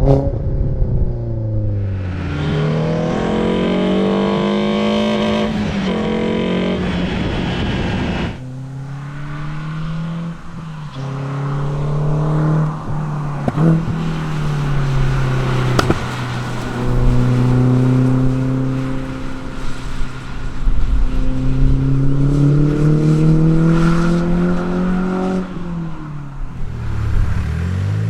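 Renault Sandero R.S.'s 2.0-litre four-cylinder engine, fitted with a cold air intake, being driven hard on track. It revs up through the gears, its pitch climbing and falling back at each shift, with an abrupt change about eight seconds in. Near the end the pitch drops away for a downshift before climbing again.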